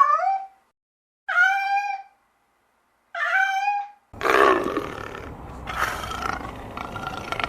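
Animal calls: three short high-pitched cries, each rising a little then levelling off, with silence between them, then from just past halfway a longer, rough, noisy call that fades down.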